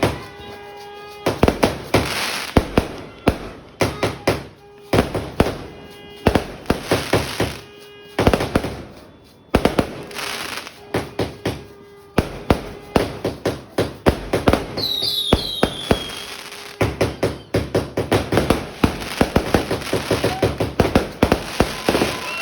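A 150-shot fireworks cake firing in rapid volleys of sharp bangs, with brief pauses between runs of shots.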